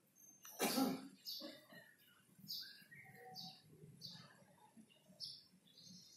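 Small birds chirping: short high chirps repeating every half second to a second. A brief louder noise comes about half a second in.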